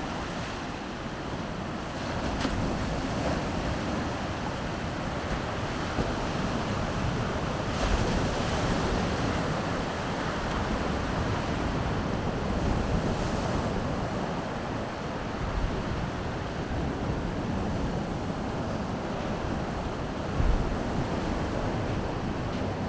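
Baltic Sea waves breaking and washing ashore in a steady surging wash, with wind buffeting the microphone in a few low gusts.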